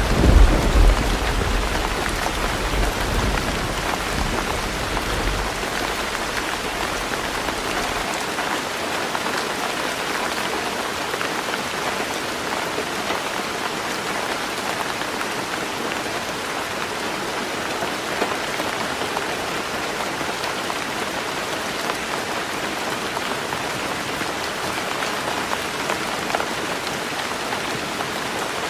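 Heavy rain drumming steadily on a roof, an even hiss of raindrops. A low rumble of thunder dies away over the first several seconds.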